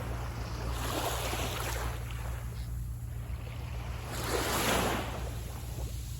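Small waves breaking on a sandy beach, two surges of surf about a second in and a louder one past the middle, over a steady low wind rumble on the microphone.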